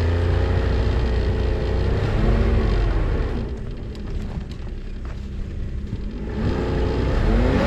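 Snowmobile engine running under load while pulling a loaded toboggan through deep snow. It eases off about halfway through, then revs up with a rising whine near the end as the sled bogs down and gets stuck.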